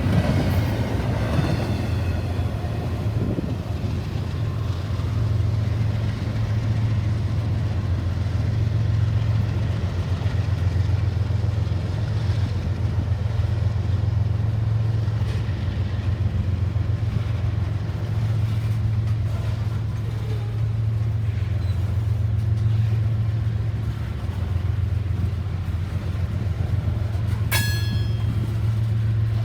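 Steady low rumble of a train running past. Near the end there is one brief high-pitched tone.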